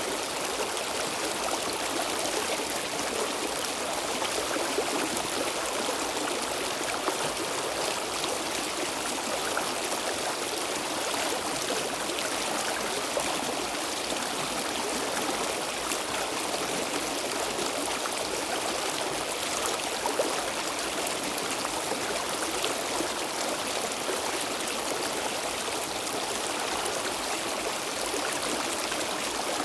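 Stream water flowing steadily, a continuous rushing with small splashes and trickles.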